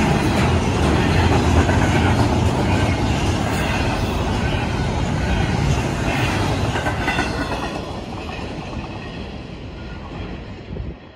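Double-stack intermodal freight train rolling past at a grade crossing, its wheels rumbling and clacking over the rails. The sound fades away in the second half as the last cars clear the crossing.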